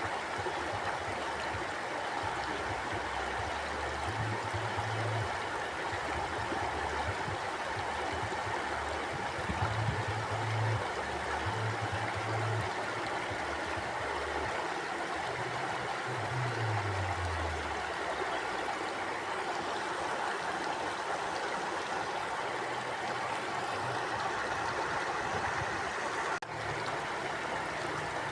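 Mountain river flowing steadily over rocks, an even rushing of water. A few short low rumbles come and go underneath, one falling in pitch about two-thirds of the way through.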